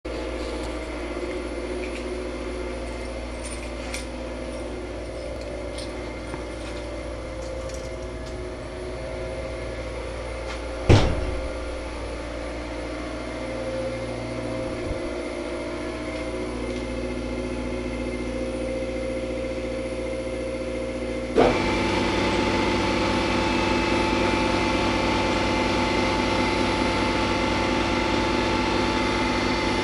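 Steady hum of refrigeration machinery running, with a single sharp knock about a third of the way in. About two-thirds through, a Karcher MV6P Premium wet-and-dry vacuum cleaner switches on abruptly and runs steadily, louder and with a fuller hiss than the hum.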